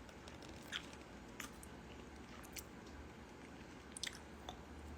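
Faint chewing of dried squid close to the phone microphone: a few small, scattered mouth clicks over a quiet background.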